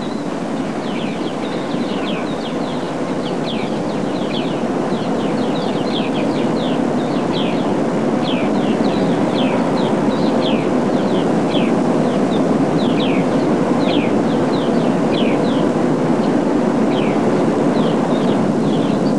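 Birds chirping: many short, quick descending calls, several a second, over a steady rushing background noise.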